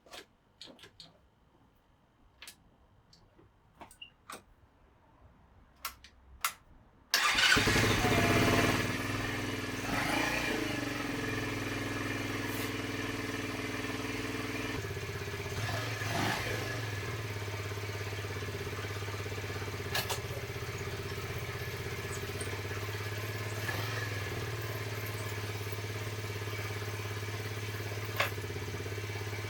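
50cc motorcycle engine: a few light clicks, then the engine starts suddenly about seven seconds in and runs on at a steady idle, its note shifting slightly about halfway through.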